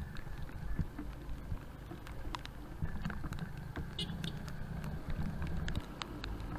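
Motorcycle engine running under way, a steady low rumble, with many scattered sharp clicks and knocks over it from the bike jolting on a rough road.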